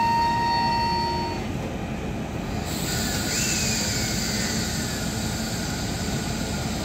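Coal-loaded open freight wagons rolling past with a steady rumble of wheels on rail. A high steady wheel squeal runs through the first second and a half, and a brief falling squeal comes about three seconds in.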